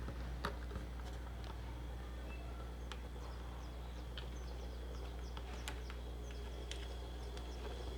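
A steady low hum with a few faint, sharp clicks spaced a second or more apart, from small iron parts being handled. Faint high chirping runs underneath.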